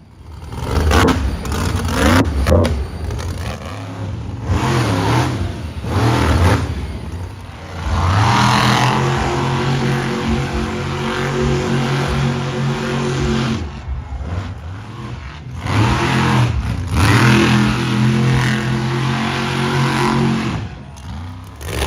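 Monster truck engine revving hard, climbing in pitch and holding high twice, with knocks and clatter in the first several seconds.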